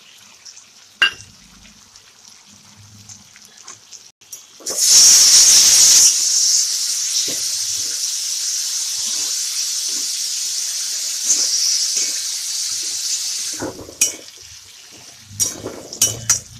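Diced potatoes and cashew paste sizzling in hot oil in a pan while a spatula stirs them in regular scraping strokes. The sizzle jumps up suddenly about five seconds in and stops near the end, and the spatula clacks against the pan a few times.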